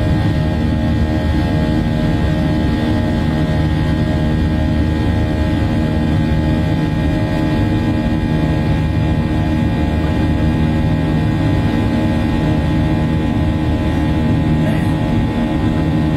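Jet airliner engines heard from inside the passenger cabin: a steady, unbroken drone with several constant hum tones over a low rushing noise.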